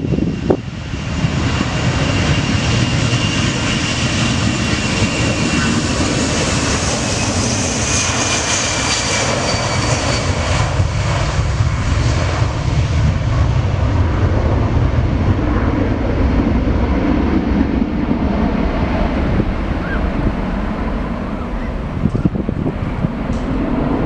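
Boeing 757-200's twin jet engines at takeoff power as the airliner passes, a loud steady rumble with a whine that slowly falls in pitch. The high-pitched part is strongest about eight to ten seconds in, then fades while the low rumble carries on.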